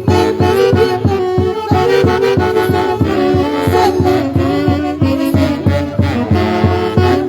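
Huancayo-style Andean band music: a saxophone or brass section plays the melody over a steady, quick bass-and-drum beat.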